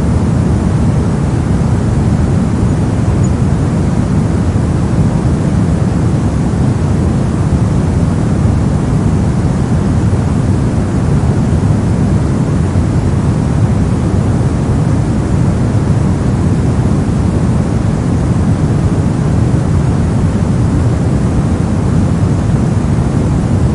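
Brown noise: a steady, unchanging rumble of random noise weighted heavily toward the low end, with little treble.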